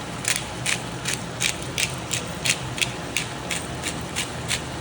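Hand pepper grinder being turned, a crisp ratcheting click about three times a second. A steady low hum runs underneath.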